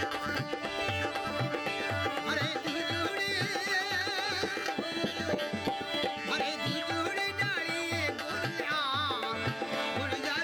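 Live Rajasthani folk music: a steady hand-drum beat under sustained pitched tones, with a high, wavering, ornamented melody line coming in about two seconds in.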